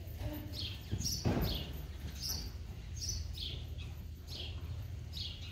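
Small birds chirping: short, slightly falling chirps repeating about once or twice a second, over a steady low hum. One brief thump a little over a second in.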